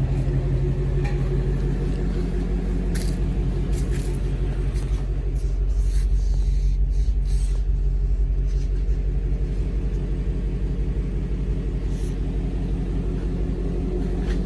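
Car engine idling steadily while warming up on its first cold start after sitting for two months, with a few light clicks over it.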